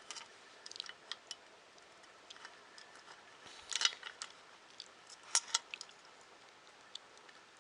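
Light clicks, taps and brief scrapes of small printer parts and screws being handled during assembly, with a louder scraping clatter about four seconds in and a sharp click about a second and a half later.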